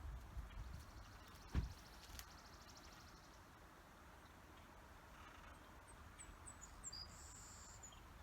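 Quiet outdoor ambience with a low rumble, a single sharp thump about one and a half seconds in, and a bird giving a few quick, high chirps near the end.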